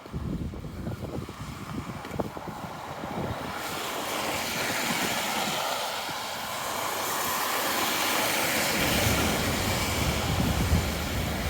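Road traffic passing on a wet, slushy street: a rush of tyre noise that builds a few seconds in and holds, with a low rumble underneath.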